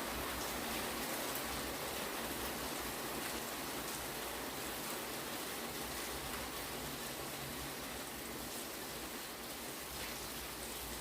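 Heavy rain falling steadily, a dense even hiss of drops with no thunder in it.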